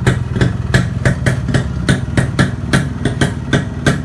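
Kawasaki HD3 two-stroke motorcycle engine, converted to a Brutus 140 block, idling through its stock silencer. There is a steady low hum and sharp, regular pops about three times a second.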